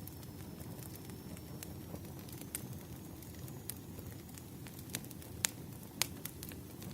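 Wood fire crackling: a steady low rumble with scattered sharp pops, the two loudest about five and a half and six seconds in.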